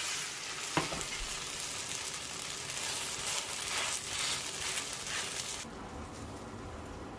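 Mung bean pancake (bindaetteok) sizzling as it fries in oil in a nonstick frying pan and is pressed down with a spatula, with one sharp knock about a second in. The sizzle cuts off suddenly near the end, leaving quieter room tone.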